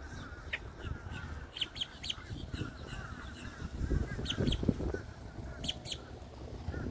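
Birds calling: many short, sharp chirps over a steady, wavering chatter.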